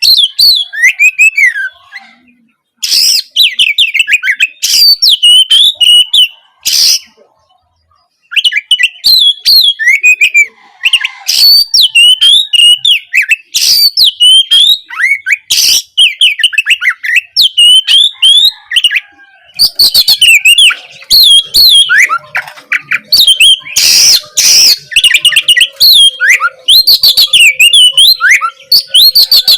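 Oriental magpie-robin (kacer) singing a fast, varied song of sliding whistled chirps and trills, broken by short loud rasping notes. The song stops briefly twice in the first eight seconds.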